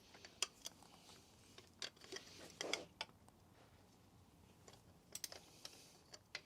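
Faint, scattered metallic clicks and light knocks of hand tools working bolts on an engine block, with a short scraping rustle about halfway through.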